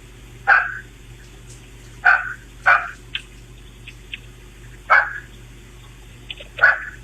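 A dog barking: five short, sharp barks spaced a second or two apart, over a steady low hum.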